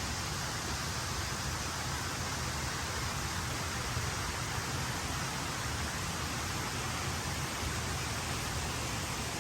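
Steady rushing of a shallow river running over small rapids, an even wash of water noise with a low rumble underneath.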